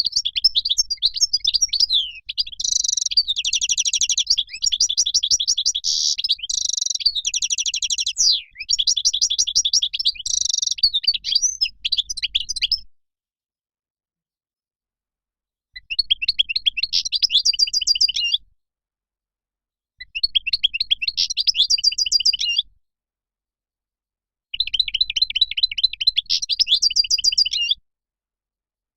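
European goldfinch song: rapid, twittering chirps and trills, running unbroken for about thirteen seconds, then breaking off into three shorter phrases of about three seconds each, separated by silent gaps.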